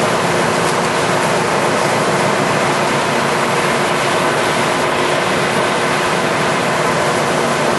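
American Pacemaker heavy-duty engine lathe running under power: a steady, loud mechanical running noise from its geared headstock and drive, with a few faint steady tones.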